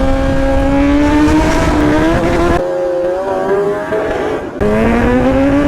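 Kawasaki Z900 inline-four engine running at high revs, its pitch climbing slowly, then dropping about four and a half seconds in and climbing again.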